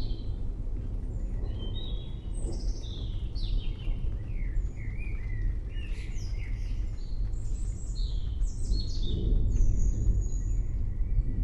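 A chorus of birds chirping and calling in quick, short, downward-sweeping notes, over a steady low rumble.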